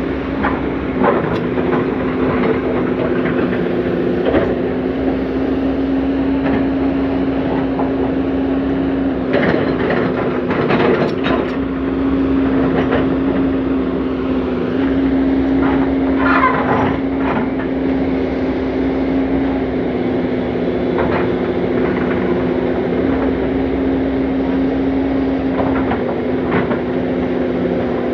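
Komatsu PC200CE hydraulic excavator working, its diesel engine running with a steady hum. A few knocks and scrapes come through about a third of the way in and again just past the middle.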